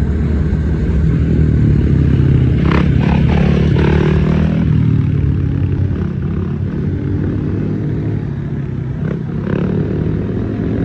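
Motorcycle engine running loud, held at raised revs and easing off a little about halfway through, with a brief clatter about three seconds in.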